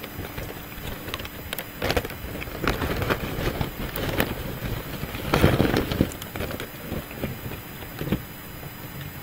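A person chewing a mouthful of chili and crab rangoon pizza close to the microphone: irregular wet chewing noises with small clicks, loudest about five and a half seconds in.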